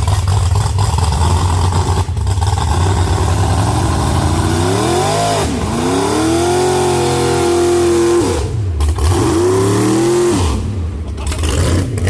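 Truck engine running steadily at a low note, then revved several times, its pitch climbing, holding high for a couple of seconds, dropping and climbing again before falling back.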